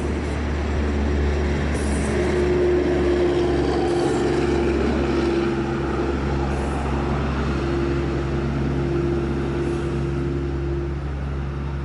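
Double-decker tour bus running along the highway: a steady engine drone with a hum that fades in and out over continuous road noise.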